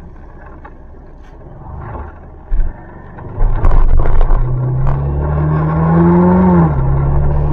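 A vehicle engine runs quietly, then about three and a half seconds in it grows loud and its pitch climbs steadily, dropping suddenly near the end before it holds on.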